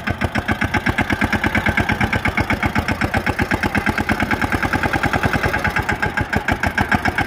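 Tractor diesel engine idling with a steady, even chug of about eight beats a second.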